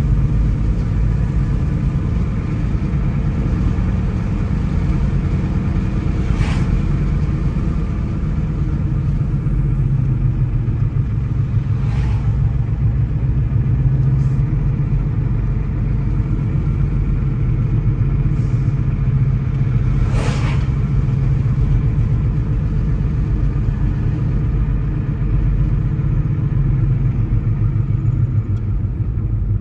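A car driving at a steady speed: continuous engine and road rumble. Three brief sharp knocks are spread through it, likely bumps in the road.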